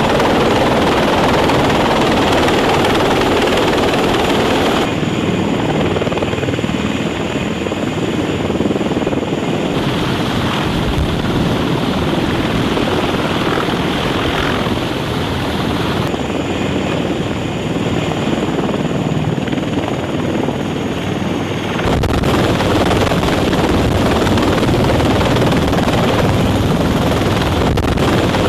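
CH-53E Super Stallion heavy-lift helicopter running close by: a loud, steady din of rotor and turbine engine noise, changing abruptly in tone every five or six seconds.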